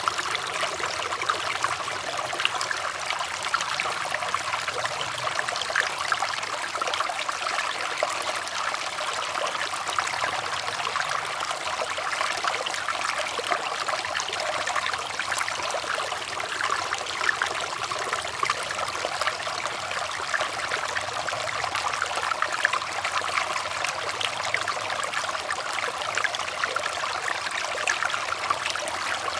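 Water trickling and running steadily, a continuous bright splashing flow without pauses.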